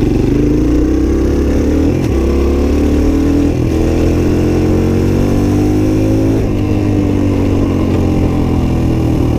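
Suzuki DR-Z125's small single-cylinder four-stroke engine pulling away under load, its pitch climbing and dropping back as it shifts up about two, three and a half and six and a half seconds in.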